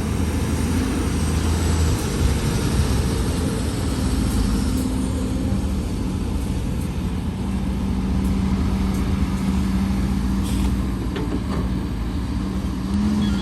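Heavy diesel earthmoving machinery running steadily, with a low engine hum throughout and a few faint clanks in the second half.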